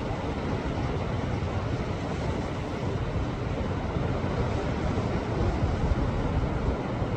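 Sea waves surging against shoreline rocks: a continuous rushing wash with a heavy low rumble, swelling slightly about six seconds in.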